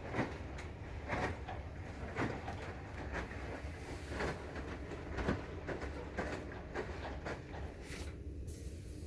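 Maytag washing machine running: a steady low hum with repeated knocks and clicks about once a second.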